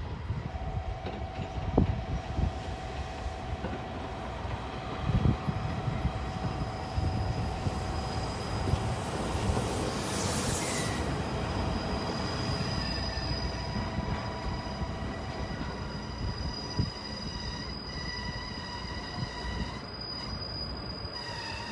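Train hauled by an 8620-class steam locomotive rolling slowly into a station, with a low rumble and knocks and steady high-pitched squealing as it slows. A short burst of hiss comes about halfway through.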